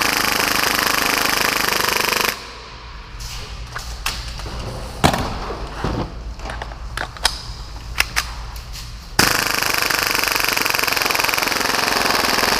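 Full-auto Tokyo Marui Hi-Capa airsoft pistol, rated at 30 rounds per second, firing a long sustained burst that stops about two seconds in. Several seconds of scattered single clicks and knocks follow, then another long burst starts about nine seconds in.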